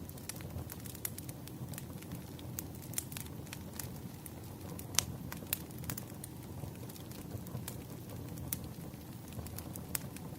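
Firewood burning: a steady low rush of flames with irregular sharp crackles and pops, the loudest pop about five seconds in.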